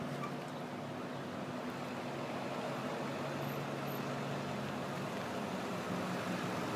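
A truck's engine running steadily, slowly growing louder.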